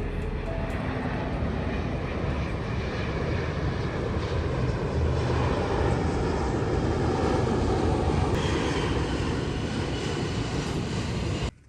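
Aircraft engine noise: a steady, loud rush that swells a little through the middle and cuts off abruptly near the end.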